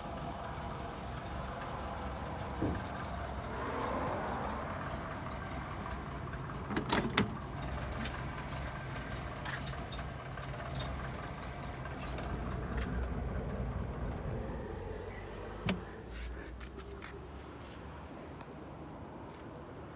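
Citroën DS four-cylinder engine idling steadily, with a few knocks and clicks from handling the car, the loudest a quick double knock about seven seconds in and another near sixteen seconds.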